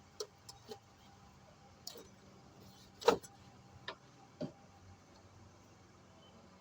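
Hand tools and metal parts clinking and knocking during work on the car's fuel pump: a handful of separate clicks, with one louder knock about three seconds in.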